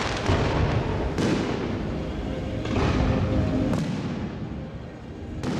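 Aerial fireworks display: several sharp shell bursts a second or two apart, with crackling and hissing between them.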